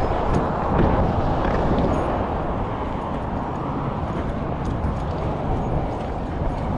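Sportbike riding along: a steady rush of wind and road noise over the running motorcycle.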